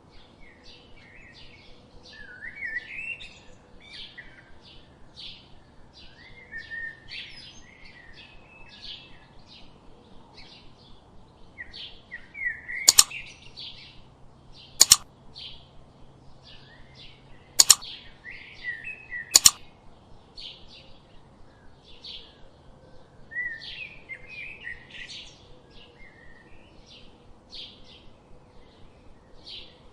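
Small birds chirping in quick, repeated short high notes, with a few lower warbled phrases mixed in. About halfway through come four loud, sharp clicks a second or two apart.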